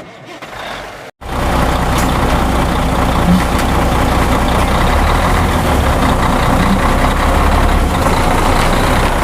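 Truck engine sound running steadily with a low hum, starting suddenly about a second in.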